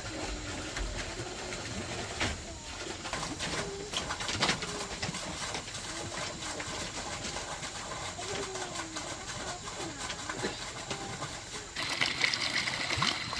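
Low cooing bird calls, short and gliding, repeated now and then among scattered small clicks and knocks. About twelve seconds in, a splashing water sound starts and is louder.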